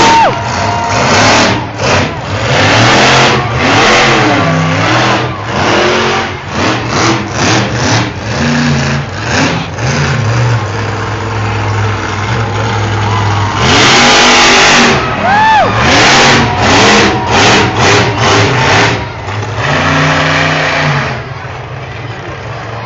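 Monster truck engine revving in repeated hard throttle bursts. The loudest stretch of revving comes a little past the middle, and the engine settles to a lower, steady run near the end.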